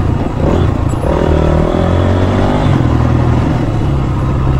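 Dirt bike engine running on the trail, its note changing several times as the throttle is opened and eased off.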